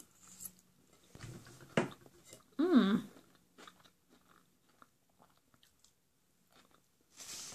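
Close-miked chewing and biting of chickpea masala and potatoes, with small wet clicks and mouth noises. A short hummed voice sound about three seconds in is the loudest moment, and a soft hiss comes near the end.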